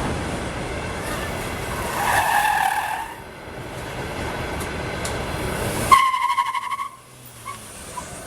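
Peugeot 406 wheels whistling: a high squeal over road noise about two seconds in, then a second, sharper squeal that starts suddenly about six seconds in, pulses rapidly and dies away within a second.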